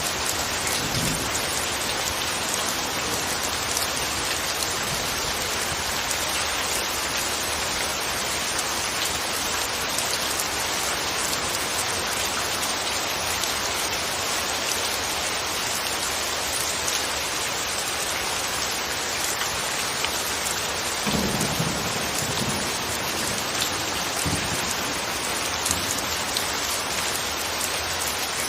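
Steady rain falling in an even, continuous patter, with a few brief low rumbles, the clearest about three-quarters of the way through.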